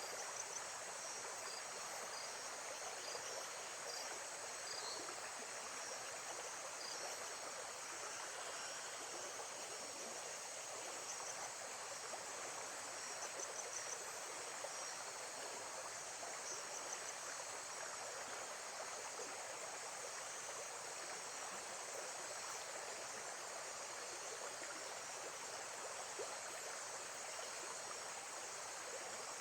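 Lake-side nature ambience: water running steadily under a continuous high chorus of crickets or other insects, with scattered short chirps in the first half.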